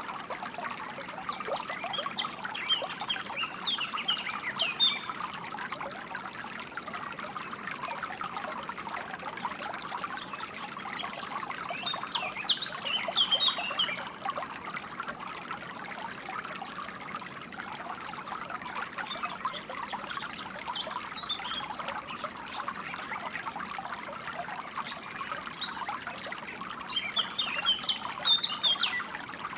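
Steady trickling of a stream, with small birds chirping and singing in short bursts four times.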